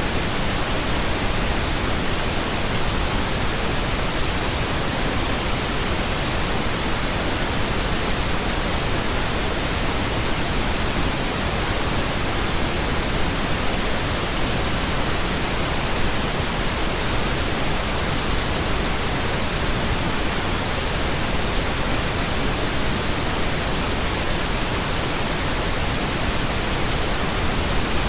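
Steady pink noise: an even, unbroken hiss spread across all pitches, with no changes or events.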